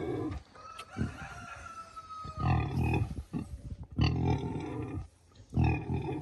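Sow grunting in short loud bursts, three times, while being handled around her newborn piglets. A rooster crows once in the background about a second in.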